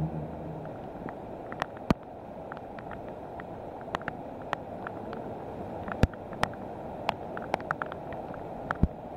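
Steady rain falling on the lake surface, with irregular sharp ticks of raindrops striking close by.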